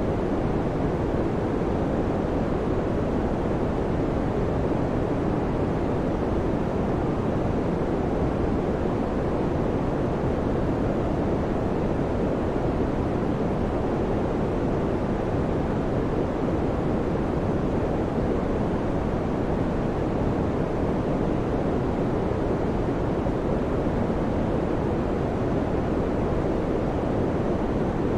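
Electric fan running steadily: an even, unchanging whoosh of moving air, deepest and strongest in the low-mid range.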